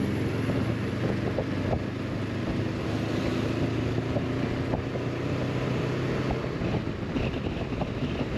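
Honda CB500X's parallel-twin engine running steadily while riding, under wind rushing over the microphone. The engine's hum fades about six and a half seconds in, leaving mostly wind.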